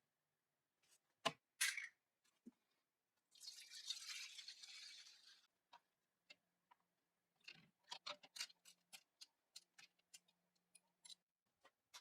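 Faint, scattered small clicks and ticks, with a short hiss lasting about two seconds a few seconds in.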